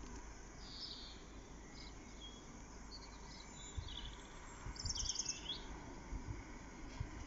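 Small birds chirping in short, scattered phrases over a faint, steady outdoor hiss, with a few soft low bumps.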